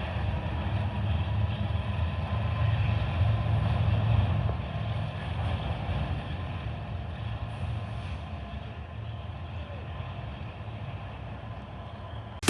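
Train rolling by on the rails with a steady low rumble that slowly fades over the last several seconds as it moves away.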